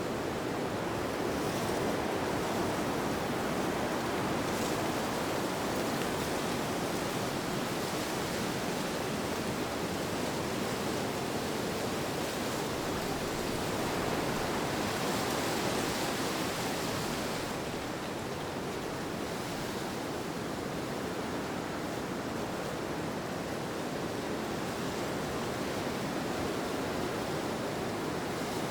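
Steady rushing wind, an even hiss with no gusts or breaks, that brightens a little about halfway through before settling back.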